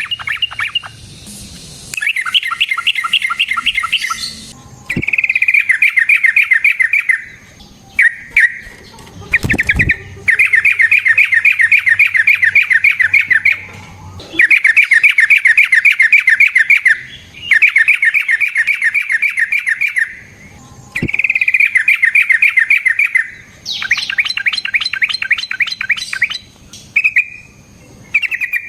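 Yellow-vented bulbul (trucukan) singing long, rapid rolling trills in repeated bouts of a few seconds each, with short pauses between them.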